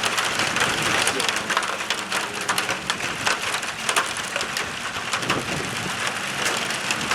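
Rain falling steadily, with many separate drops clicking as they hit a surface close by.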